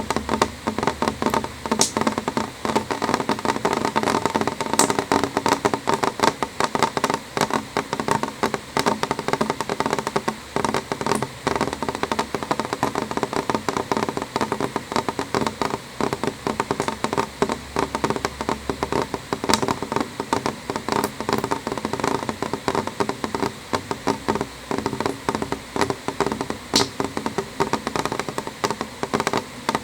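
Rain pattering on a window pane: a steady, dense run of small irregular taps, with an occasional sharper, brighter drop standing out.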